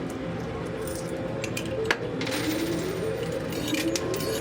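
Quarters dropping and clinking in a coin pusher machine over its steady hum, with one sharp clink about two seconds in followed by about a second of coins rattling and sliding.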